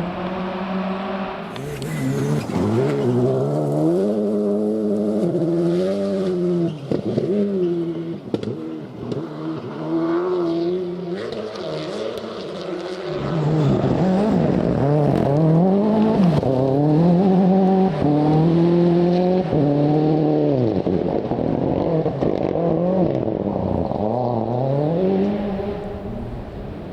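Rally car engines being driven hard: the pitch climbs and drops again and again through gear changes and lifts off the throttle. About halfway through it turns louder, with a second stretch of hard acceleration.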